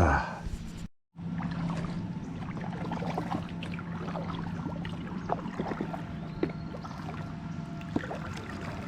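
Kayak on the water: water trickling and splashing around the paddle and hull, with many small knocks and ticks, over a steady low hum. A louder knock right at the start, and the sound cuts out completely for a moment about a second in.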